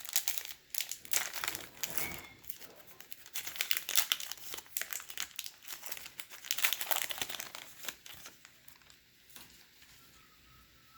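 Foil wrapper of a pack of baseball cards being torn open and crinkled by hand, a dense irregular crackle that dies away about eight seconds in.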